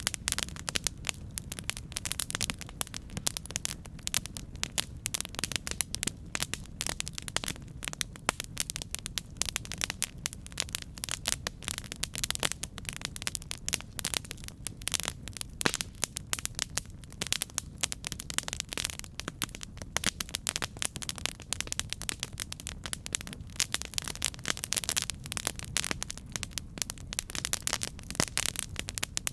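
Campfire burning, with dense, irregular crackling and popping of wood over a steady low rumble of the flames.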